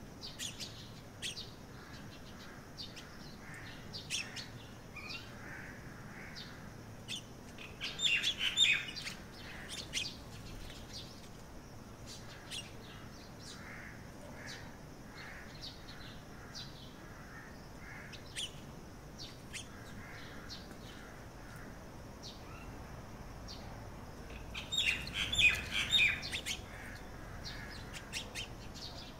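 Birds chirping: scattered short high chirps throughout, with two louder bursts of rapid chirping, one about eight seconds in and one near the end.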